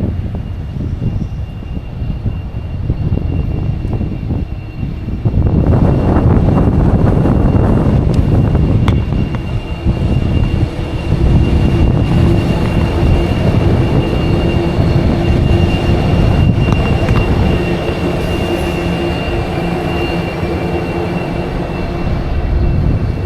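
Wind buffeting the microphone, then from about five seconds in a heavy diesel freight train hauled by TT-class locomotives passes close by: a loud, steady rumble with a steady whine over it.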